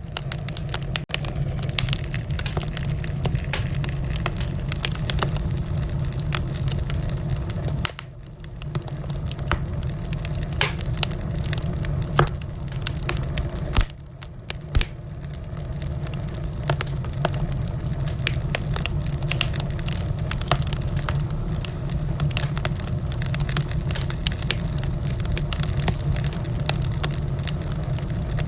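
Wood fire crackling in a fireplace: a dense run of sharp pops and snaps over a steady low rumble of the flames, dipping briefly in level twice.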